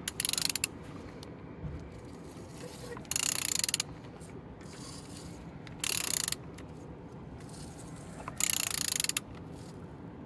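A ratchet wrench clicks in four short bursts, a few seconds apart, as the crankshaft of a Z13DTJ 1.3 diesel engine is turned over by hand. The engine is not running.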